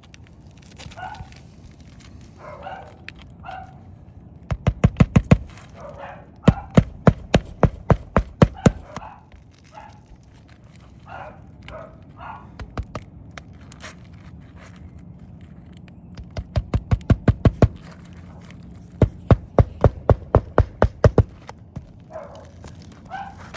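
Bursts of sharp knocks, several per second, from work on an asphalt shingle roof, with a dog barking repeatedly in the background between the bursts.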